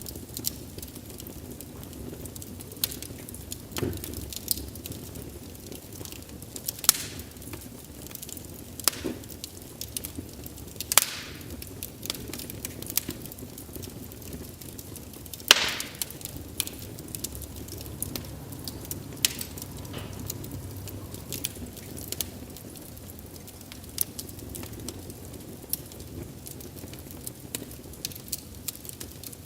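Wood fire crackling: a steady low rumble of flames with irregular sharp pops and snaps from the burning logs, a few of them loud.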